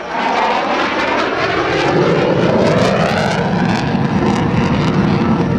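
F-15E Strike Eagle's twin jet engines as the jet flies past, the pitch bands sweeping with its motion and a deeper rumble building about two seconds in.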